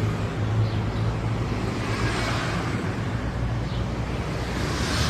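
A steady low engine hum under a constant rushing, wind-like noise.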